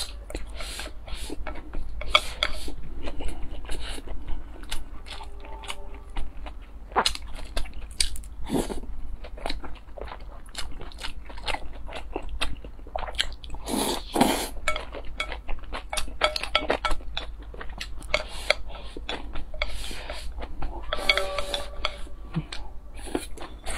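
Close-up eating sounds: chewing, biting and crunching into food in quick, uneven clicks and crackles, with a few louder bites about a third and just over halfway through.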